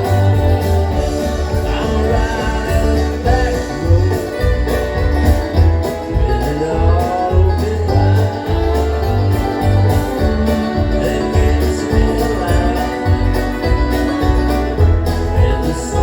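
Live bluegrass-style string band playing: plucked strings such as guitar and banjo over a pulsing bass line.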